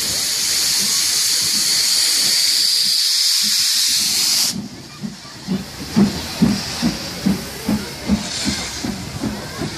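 Steam locomotive blowing off steam with a loud, steady hiss that cuts off suddenly about four and a half seconds in, followed by a rhythmic low thudding about two times a second.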